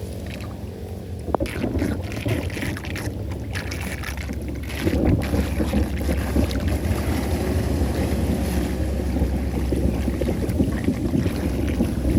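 Floodwater rushing and gurgling down a cleared street drain, a deep rumbling churn that gets louder about five seconds in.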